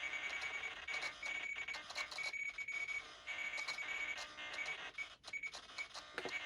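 A steady high-pitched electronic tone that stops and starts at irregular intervals, over a faint hiss with a few small clicks.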